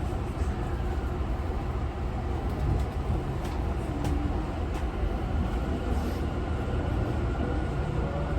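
Running noise inside car 8 of Tobu 50090 series EMU set 51093F: a steady rumble of the train under way. This car's traction motors may be of a different type from the rest of the class and give an unusual sound.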